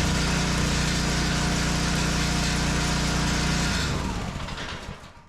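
Small gasoline engine of a log splitter running steadily. About four seconds in it is shut off and spins down to a stop.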